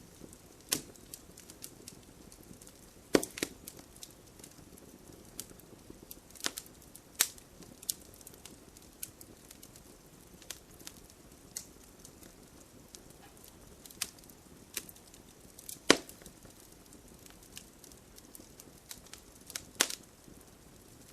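Campfire crackling: irregular sharp pops and snaps of burning wood over a soft steady hiss. A few louder snaps stand out, the strongest about three, sixteen and twenty seconds in.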